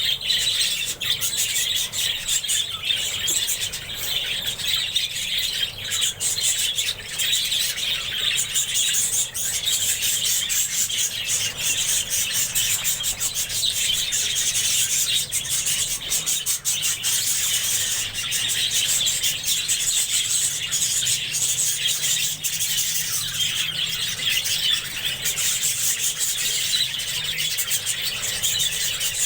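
A colony of budgerigars chattering continuously: a dense, high-pitched mix of many overlapping chirps and short clicks.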